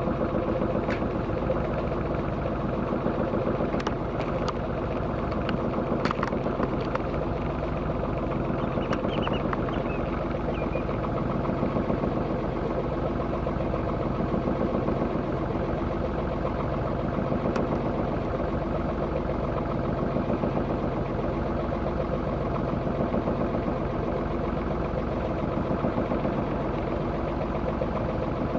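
Sailing yacht's engine running steadily under way at an even speed. A few faint clicks come about four to six seconds in.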